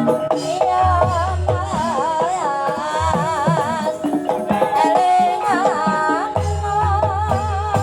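Javanese gamelan music for an ebeg dance: an ornamented melody with wide, wavering pitch over sustained pitched gamelan tones, driven by repeated kendang drum strokes.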